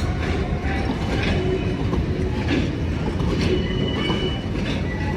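A train running through the station: a steady rumble with a regular clack of wheels over rail joints about once a second and faint thin squeals from the wheels.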